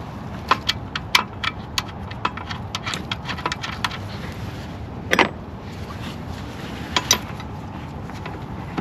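Irregular metallic clicks and clinks of hand tools and bolts being handled during engine reassembly. A louder clank comes about five seconds in and two more near seven seconds, over a steady background hum.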